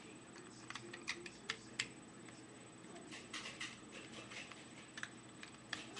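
Plastic Lego pieces clicking and rattling as they are handled and sorted, in scattered light clicks with a few quick clusters.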